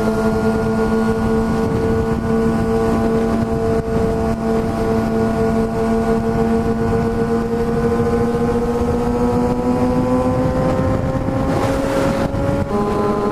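Sport motorcycle exhausts droning at a steady highway cruise around 7,000 RPM, almost deafening, with wind rushing over the microphone. The engine pitch rises slowly in the second half, and a second engine tone joins near the end.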